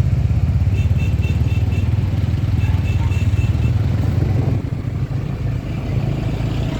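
Vehicle engines, likely motorbikes, running with a steady low rumble that eases a little past halfway. Two short runs of quick high-pitched beeps, about four or five a second, sound near the start and again about three seconds in.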